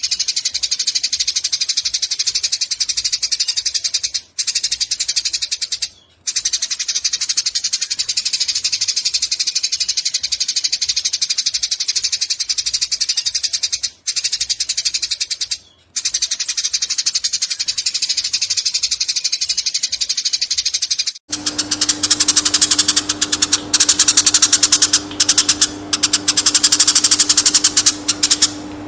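Eurasian tree sparrows chattering in a long, rapid run of chirps, broken by a few brief pauses. About 21 seconds in, it switches abruptly to a faster, harsher chatter over a steady low hum.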